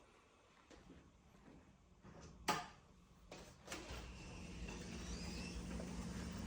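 A sharp clack, like a door or drawer being slid or knocked, a couple of softer knocks after it, then a steady low hum with a faint hiss that sets in and grows slightly louder.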